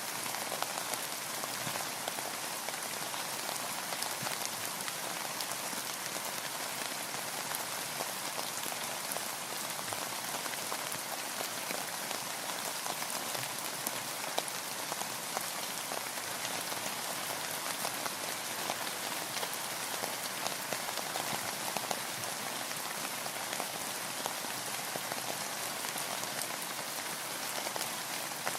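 Steady rain falling, an even hiss dotted with many small ticks of single drops.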